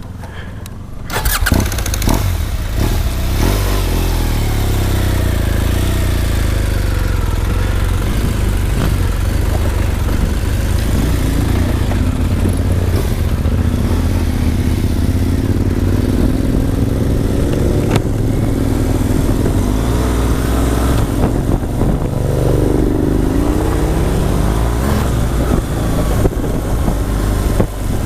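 Motorcycle engine coming in loudly about a second in, then running with its pitch rising and falling as it revs.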